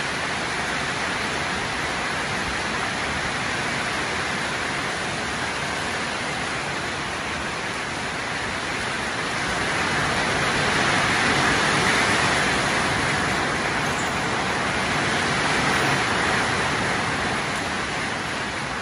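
Steady rain falling on a corrugated metal roof, an even hiss that grows a little louder past the middle.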